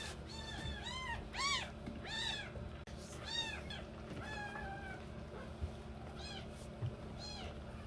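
Baby kittens mewing: a rapid string of short, high-pitched mews that comes thick at first and thins to a few near the end.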